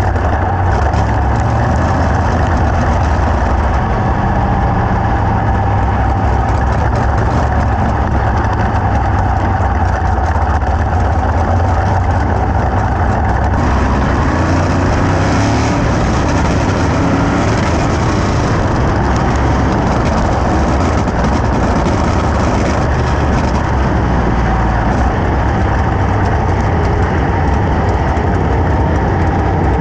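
Sprint car V8 engines running steadily and loudly, with no single car clearly passing.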